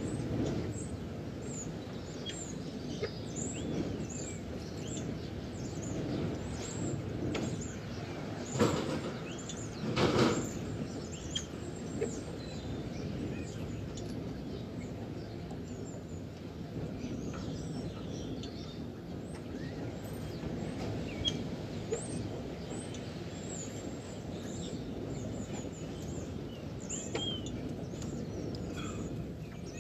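Small birds chirping over a steady low outdoor rumble, with two louder whooshes about nine and ten seconds in.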